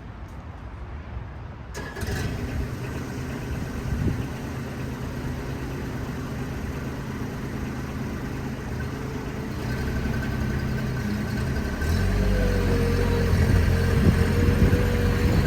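Bobcat MT100 mini track loader's engine running, coming in suddenly about two seconds in. About twelve seconds in it gets louder and a steady whine joins it.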